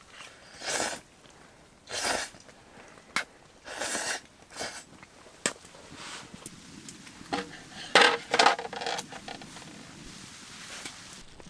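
A run of short scraping or crunching noises, each about half a second, with a few sharp clicks and a busier cluster of knocks and a brief clink about eight seconds in.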